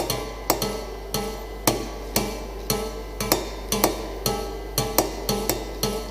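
Prepared piano strings plucked and struck by mechanical devices instead of keys and hammers: an irregular run of sharp strikes, about two to three a second, each ringing briefly. Coins, screws and bolts laid in some strings change their tone.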